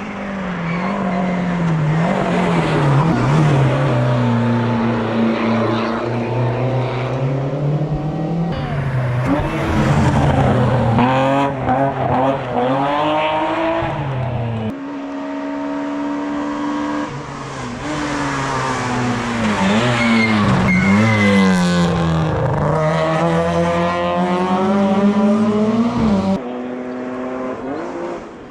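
Race car engines at a hill climb, revving hard up through the gears and dropping back on the overrun, the pitch rising and falling again and again. The sound breaks off and changes abruptly three times, as the engine sound switches from one car to another.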